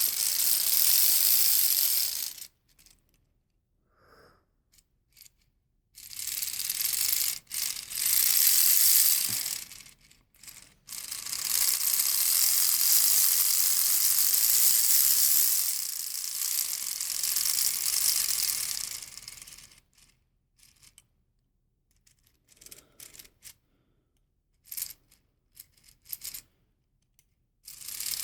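Lego Technic V2 engine model with a 25-to-1 gear-up being cranked by hand: plastic gears and pistons run with a fast, dense clicking rattle in three spells, stopping and starting again. Between spells and in the last several seconds there are only scattered clicks as the parts are handled.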